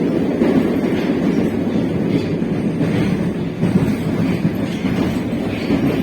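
Moscow metro train running through a tunnel, heard inside the carriage: a steady low rumble with the wheels clacking over the rail joints.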